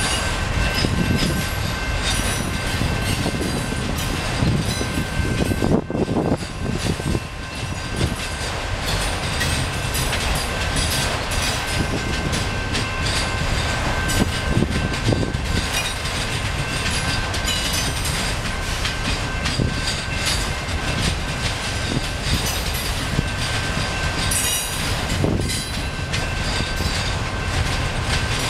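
Autorack freight cars of a passing train rolling by: a steady rumble of steel wheels on rail, with many sharp clicks and clacks as the wheels pass over the track.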